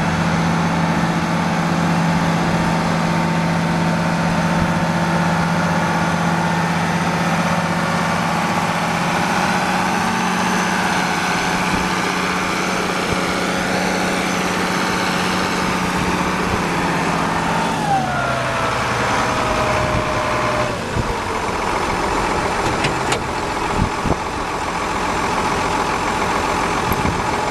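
International Hydro 186 tractor's diesel engine running steadily at speed with a higher whine over it; about 18 seconds in the pitch falls over a few seconds as the engine slows, and it then runs on at a lower, rougher note with a couple of brief clicks.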